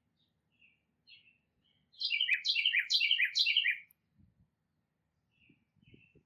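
Backyard songbirds chirping softly, then one bird sings loudly: four quick repeated phrases, each sliding downward in pitch. A few soft low thumps follow near the end.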